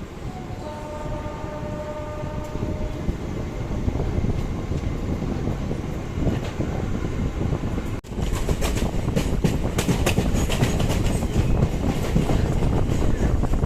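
MEMU electric multiple-unit train running, heard as rumble and wheel noise with the wheels clattering over rail joints. There is a held tone in the first couple of seconds. From about eight seconds in, the ride is louder, with a quick run of sharp clacks.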